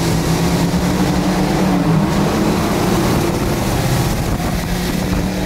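A car engine running loudly, a steady low drone with a rushing noise over it.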